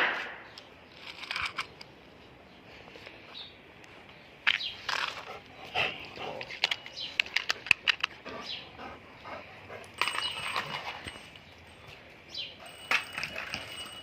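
A dog playing with a toy on a hard floor: scattered clicks, taps and scrapes, with a sharp loud sound right at the start.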